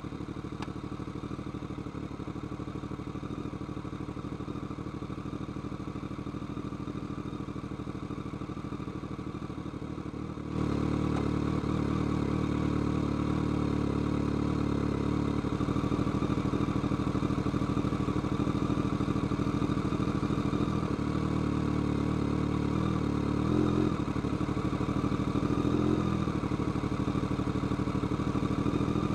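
BMW K1200R's inline-four engine running steadily under way. About ten seconds in the sound suddenly steps up and stays louder, and near the end there are a few brief rises and falls in pitch.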